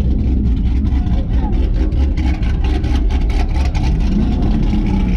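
Steady low rumble of car engines running, with faint voices underneath.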